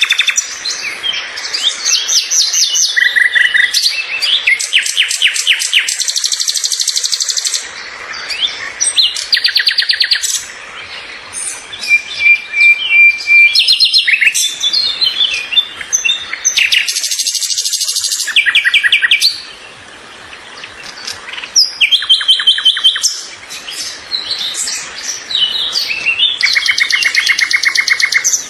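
Songbirds singing and chirping, with fast trills of rapidly repeated notes and short whistled notes following one another without a break.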